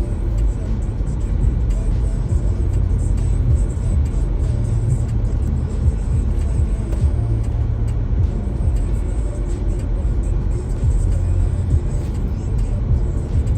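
A steady low rumble, like a vehicle running, with music playing over it.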